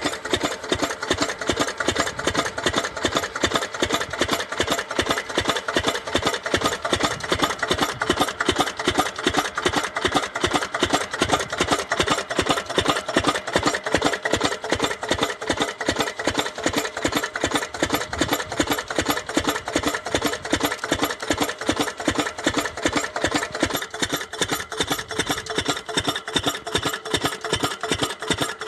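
10 hp diesel water-pump engine running steadily with an even, rapid beat of about four strokes a second.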